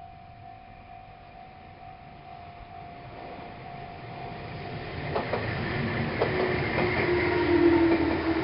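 A Meitetsu Panorama Super express train approaches, growing steadily louder, with its wheels clacking over rail joints from about five seconds in, and is loudest near the end.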